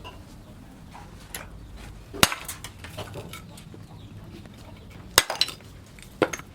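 Three sharp clinking knocks, each with a short ring: the first about two seconds in, the next two close together near the end.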